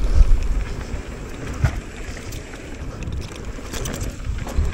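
Wind buffeting the microphone of a helmet chin-mounted camera on a mountain bike descent, with the low rumble of the bike over rough dirt. A few sharp knocks and rattles from the bike come through, about two seconds in and twice near the end. The rumble is loudest in the first second.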